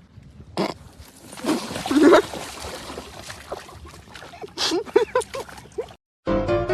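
An animal making a run of short rising-and-falling calls, several in quick succession in the second half, over a busy, noisy background. It cuts to piano music near the end.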